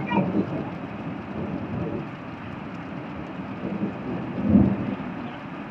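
Heavy rain pouring down steadily, with irregular low rumbling surges and a louder low thud about four and a half seconds in.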